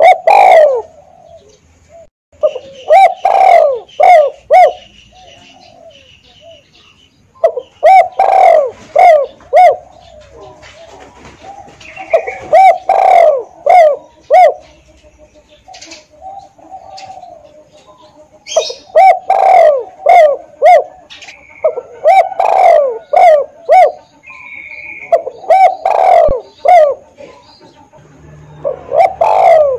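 Spotted dove (tekukur) cooing: loud phrases of several short, falling coo notes, repeated every few seconds, with faint chirps of other birds in the gaps.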